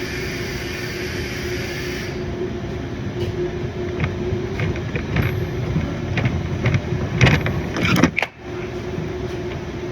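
Steady mechanical hum with a few scattered knocks and clicks, and two louder knocks about seven and eight seconds in.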